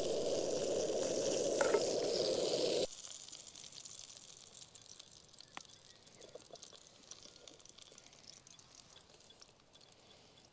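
Sausages and potatoes sizzling in a pan on a Trangia camping stove, a steady hiss that cuts off abruptly about three seconds in. Faint quiet outdoor background with a few small ticks follows.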